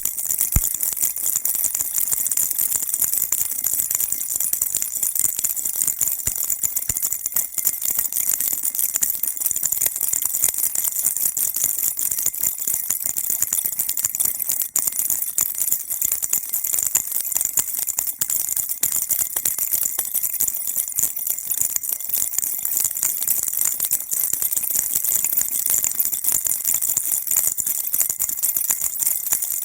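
Baby rattle shaken continuously, a dense, even jingling with no pauses.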